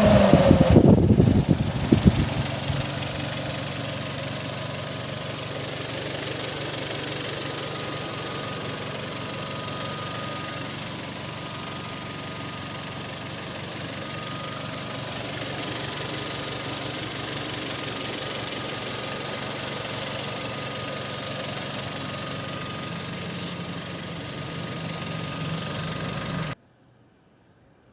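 Car engine idling steadily after its revs drop away in the first couple of seconds; the sound cuts off suddenly near the end.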